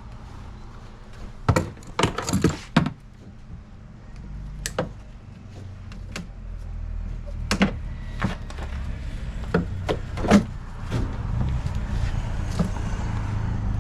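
Irregular knocks and clatter of parts and tools being handled while stripping a personal watercraft's hull: a quick cluster of knocks early on, then single knocks every second or two. A low rumble underneath grows louder in the second half.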